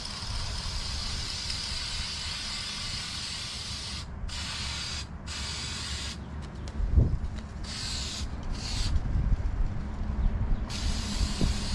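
Aerosol can of Maxima FAB1 air-filter oil spraying onto a foam air filter. It hisses steadily for about four seconds and pauses briefly twice, then gives two short squirts, and sprays steadily again near the end. There is a soft knock about seven seconds in.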